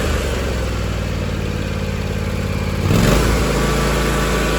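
The John Deere X570's 24 hp Kawasaki FS730V two-cylinder air-cooled engine running steadily, with a brief rev about three seconds in.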